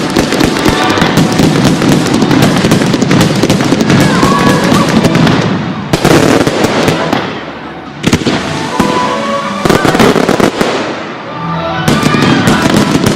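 Fireworks going off: dense crackling and popping for the first five seconds or so, then a string of separate loud bangs, each trailing off.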